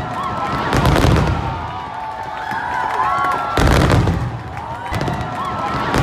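Aerial fireworks shells bursting: two loud booms, about a second in and about two-thirds of the way through, each followed by a low rumbling tail.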